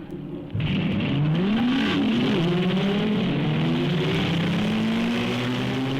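Car engine accelerating, starting abruptly about half a second in. Its pitch rises, dips and climbs again as if through a gear change, then keeps rising slowly.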